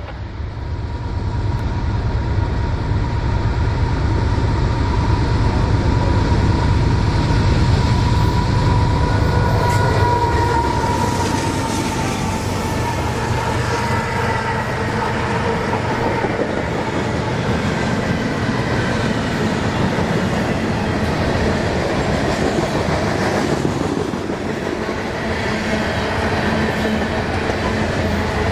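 Diesel freight train passing close by: locomotive engines rumbling low and steel wheels clattering over the rail joints, continuous throughout.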